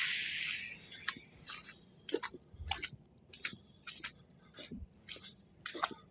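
Footsteps crunching in a few inches of fresh snow, about two steps a second. A hiss fades away during the first second.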